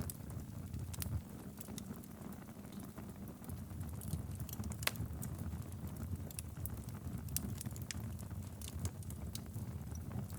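Wood fire burning in a fireplace: a steady low rumble of flames with frequent sharp crackles and pops, one louder pop about five seconds in.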